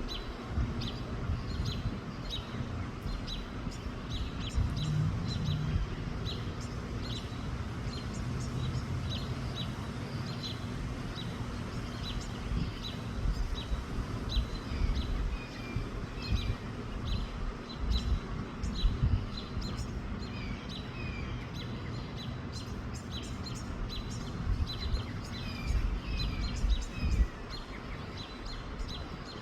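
Small birds chirping, short high notes repeated steadily about twice a second with an occasional falling call, over a gusty low rumble of wind on the microphone.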